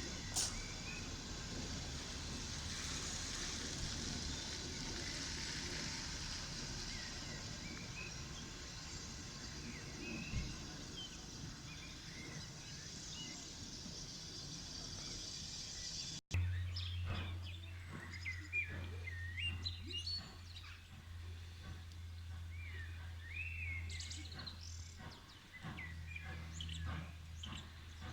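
Small birds chirping and singing over a steady hiss. About halfway through the sound breaks off for an instant, and after that a steady low hum runs under the birdsong.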